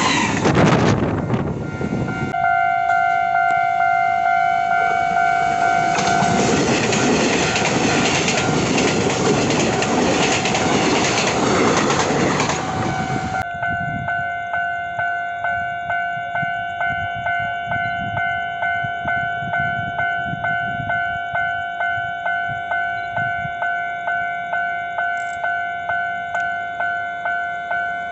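Taiwan Railways E1000 push-pull express carriages rolling past at close range, with a level-crossing warning bell ringing over the rail noise. About halfway through, the rolling noise stops abruptly and the crossing bell rings on alone in steady repeated strokes.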